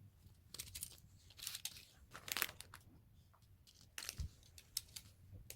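Crinkling and rustling in irregular bursts, with a few sharp small clicks, as LEGO pieces and their plastic packaging are handled.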